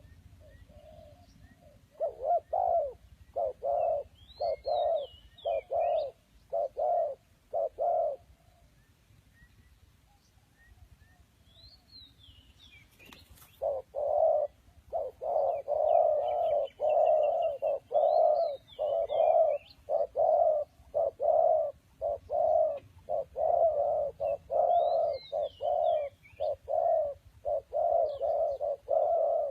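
A bird calling in a fast series of short, low, evenly repeated notes, about one and a half a second, in two long runs with a pause of about five seconds between them. Fainter, higher chirps from other birds sound over them, and a single sharp click comes just before the second run.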